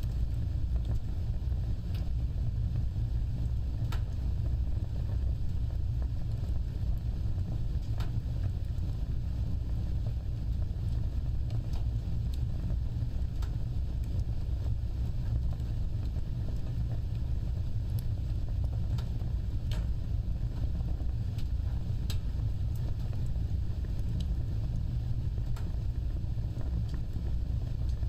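Open fire burning with a steady low roar, broken by scattered sharp crackles and pops every second or two.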